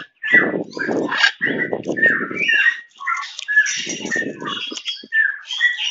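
Birds calling: a run of short, repeated chirps, with a few harsher, rougher calls among them.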